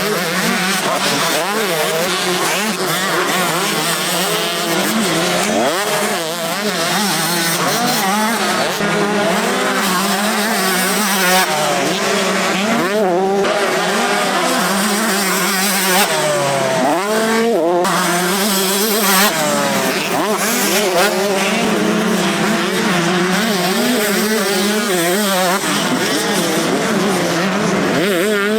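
Several 125 cc two-stroke motocross bikes racing, their engines revving up and falling back over one another, with one bike's rev rising sharply about two-thirds of the way through.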